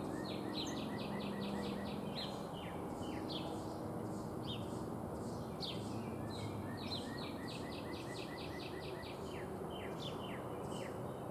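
Songbird singing: two quick runs of short, falling notes, about eight a second, with scattered single chirps between them, over a steady low background hum of outdoor noise.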